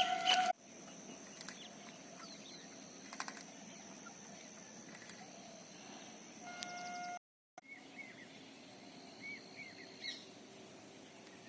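Faint rural morning ambience: scattered short bird chirps over a steady, high, thin insect drone. The sound drops out briefly a little after seven seconds, and afterwards there are quick chirps.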